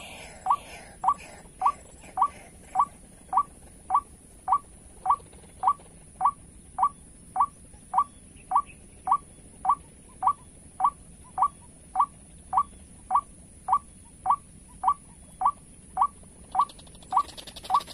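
White-breasted waterhen call: a short rising note near 1 kHz repeated evenly, about three times every two seconds. A steady high whine runs underneath.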